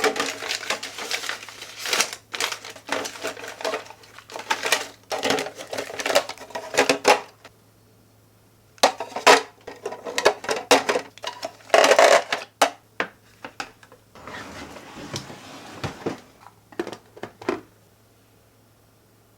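Dishes and utensils clattering and clinking as they are handled and set down, in bursts with two short pauses, over a faint steady hum.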